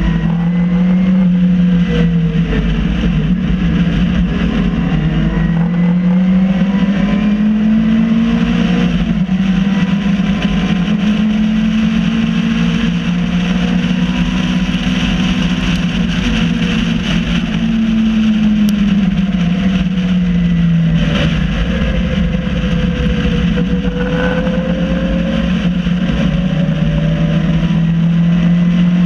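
MG Midget race car's engine, heard from the cockpit under racing load. The revs slowly rise and fall several times, drop lower about two-thirds of the way through, and climb again near the end, over a steady rush of wind and road noise.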